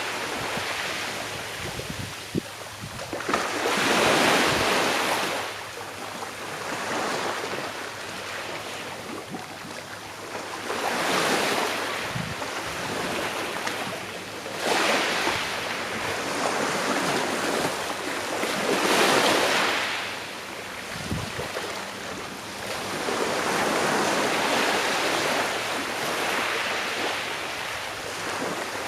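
Small sea waves breaking and washing on a shore, each swell rising and falling away about every four to five seconds over a steady hiss of water.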